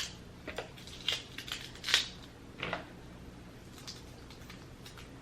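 Dungeness crab shell being cracked and pulled apart by hand: a few short sharp cracks and clicks, the loudest about two seconds in.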